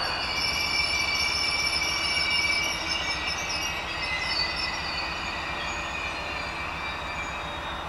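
Train moving at low speed with a high-pitched metallic squeal from its steel wheels on the rails, several shrill tones held at once over a low rumble. The sound fades gradually towards the end.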